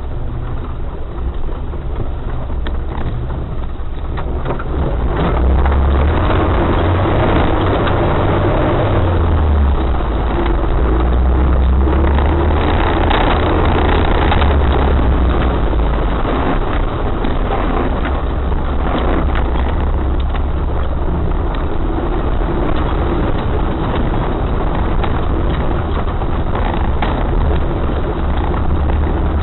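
Off-road 4x4's engine running under load over rough ground, a steady low drone that gets louder about five seconds in and shifts pitch around eight to nine seconds in, with jostling rattle mixed in.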